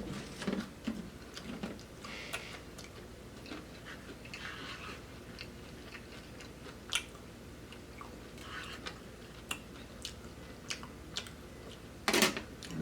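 Close-up chewing and biting of fried chicken, with wet mouth noises and scattered small clicks. A louder short noise comes near the end.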